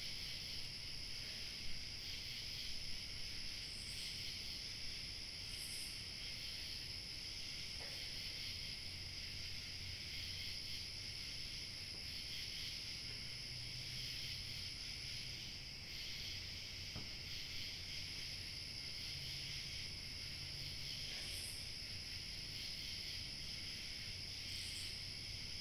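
Steady evening chorus of crickets chirping, with a high thin trill above it and four short, higher-pitched calls scattered through.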